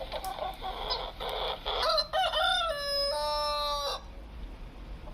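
A rooster clucking briefly, then crowing once, cock-a-doodle-doo, with the last note held. The crow cuts off suddenly about four seconds in.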